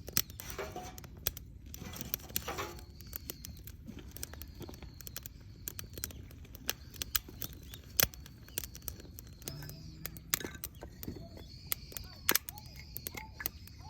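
Wood campfire crackling, with sharp irregular pops and snaps throughout. Faint high chirps run through the second half.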